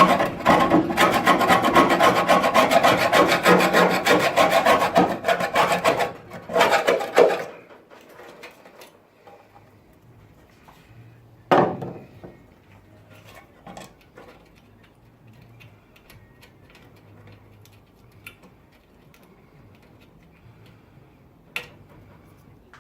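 Loud, fast abrasive scraping on the rusty steel bodywork of a Ford Cortina Mk V being cleaned back, which stops abruptly about seven seconds in. Faint handling noise follows, with two sharp knocks later on.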